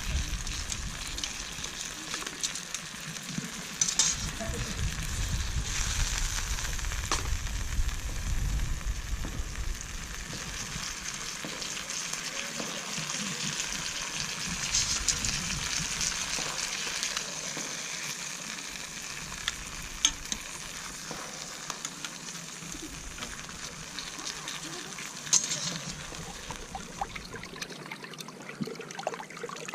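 Food sizzling in a frying pan: a steady hiss with sharp pops now and then, and low rumbling through roughly the first ten seconds.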